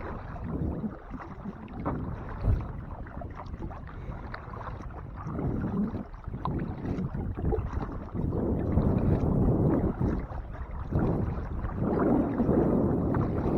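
Kayak paddle strokes swishing and splashing in the water in irregular washes, with wind buffeting the microphone as a steady low rumble.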